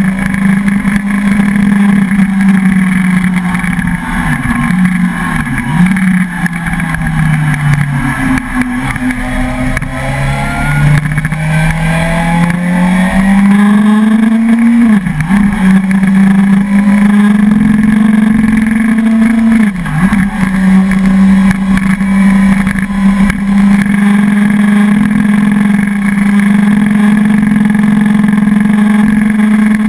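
Suzuki sport motorcycle's engine running under way, heard from a camera mounted on the bike. The engine note is mostly steady, with a few brief dips. It sinks about a fifth of the way in and climbs back again near the middle.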